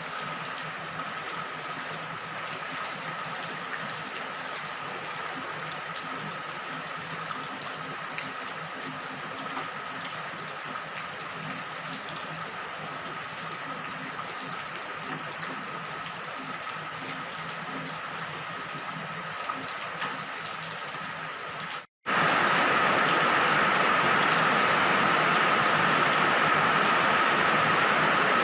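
Steady rain falling, an even hiss of water. About two-thirds of the way through it cuts out for an instant and comes back noticeably louder.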